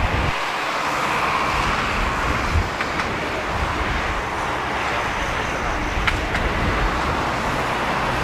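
Strong gusting wind buffeting the microphone, with a steady roar behind it.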